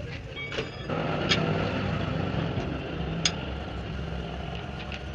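An engine runs steadily with a low rumble, while a few sharp metallic clinks sound from parts being handled, about a second in and again near the three-second mark.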